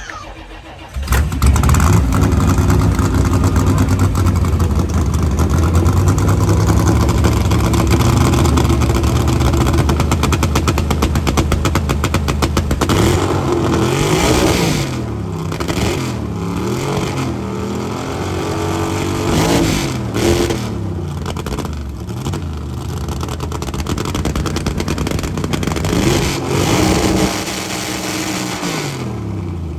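Car engine with an open exhaust, revved loud: about a second in it jumps to high revs and is held there for some twelve seconds, then it is revved up and down over and over.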